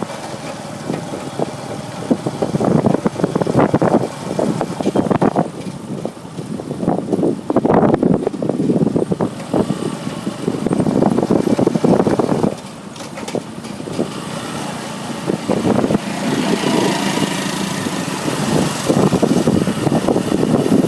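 Street traffic of motorcycles and cars passing one after another, their engines swelling and fading in waves.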